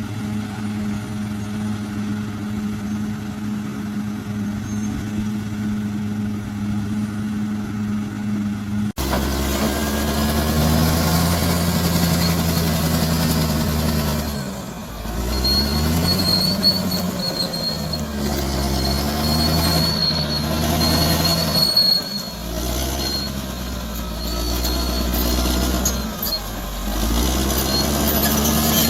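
Bulldozer's diesel engine, running at a steady drone, then after an abrupt cut louder and working, its pitch rising and falling as the load comes and goes. A thin, high squeal of metal runs through the middle stretch.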